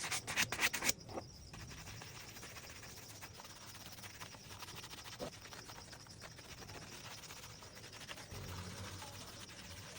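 Rapid brushing strokes on a leather shoe for about the first second, then faint steady rubbing and scratching as the leather is worked.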